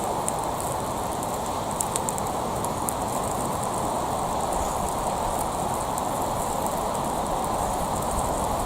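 Gas torch flame blowing steadily, with small scattered crackles and pops.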